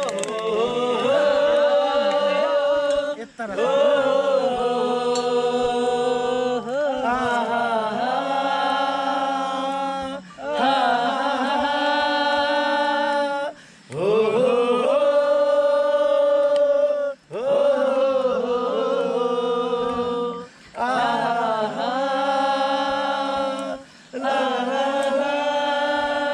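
A voice singing or chanting in long held phrases of a few seconds each, sliding into each note and pausing briefly between phrases, with little or no accompaniment.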